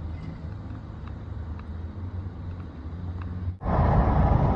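Steady low vehicle hum, then a cut about three and a half seconds in to much louder road noise of the truck driving at speed.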